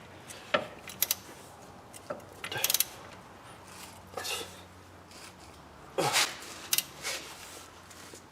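Scattered metal clicks and clinks of a wrench working the front wheel bearing's mounting bolts tight, at uneven intervals, with the loudest knock about six seconds in.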